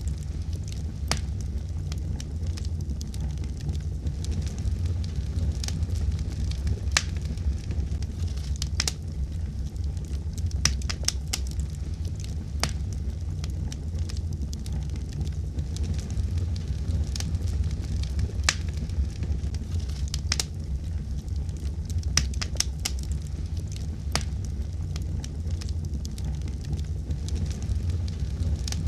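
Fire crackling in a fireplace: irregular sharp crackles and pops, a few a second, over a steady low rumble.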